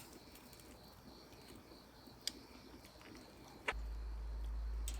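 Faint steady chirping of crickets, with two sharp clicks and a low rumble that sets in near the end.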